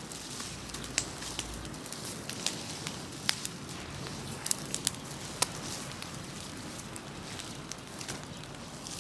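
Large bonfire of cut trees and brush burning: a steady rush of flame with sharp crackles and pops at irregular moments.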